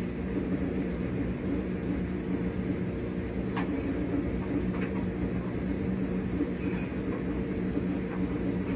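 RCA RPW302 portable washing machine running with a steady motor hum, with a few faint ticks.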